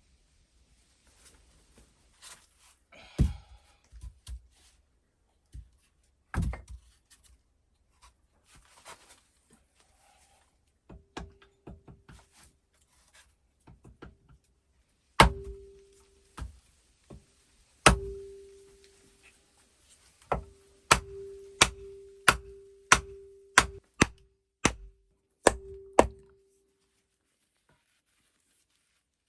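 Hammering on wood: scattered knocks at first, then a run of strong blows about one or two a second, each followed by a short ringing note.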